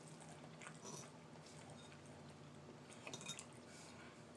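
Faint close-up chewing of soft ramen noodles and shrimp, with a few soft clicks about a second in and again near the end.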